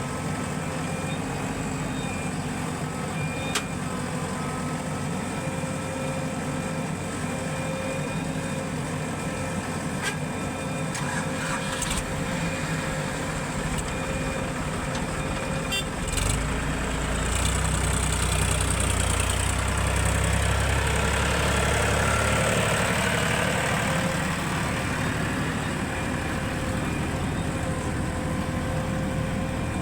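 Heavy diesel machinery engine running steadily. Partway through it grows louder and deeper for several seconds, then settles back.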